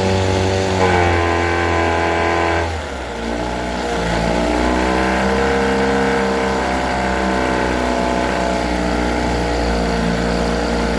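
1978 Johnson 6 hp two-stroke outboard motor running in a test tank. It speeds up about a second in, then drops to a lower speed just under three seconds in and runs on steadily there with a slight waver.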